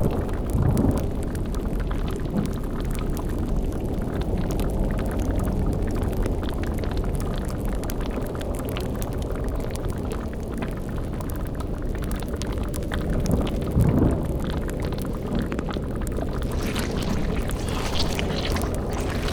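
Layered spooky sound-design ambience: a steady deep rumbling drone with faint crackling over it, swelling briefly about two-thirds of the way through, with a brighter hissing layer coming in near the end.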